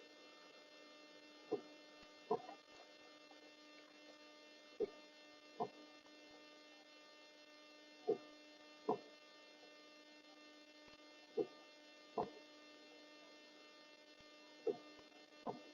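A steady electrical hum, broken by short sharp clicks that come in pairs about a second apart, one pair every three seconds or so.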